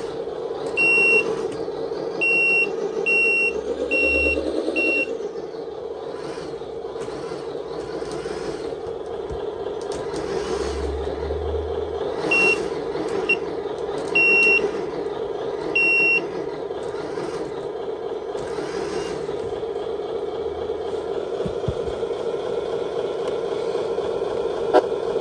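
RC truck sound module playing a simulated Iveco diesel truck engine idling steadily through a small speaker. Two runs of short electronic reversing beeps sound over it, about five near the start and four more about halfway through.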